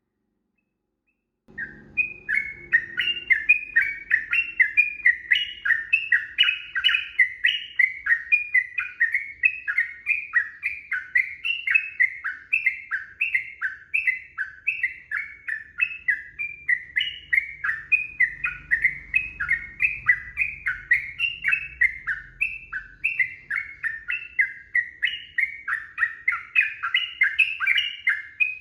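Yellow-vented bulbul (trucukan) giving a long, unbroken run of quick chattering song phrases, several notes a second. It starts about a second and a half in. This is the long, rapid 'ropel' fighting song.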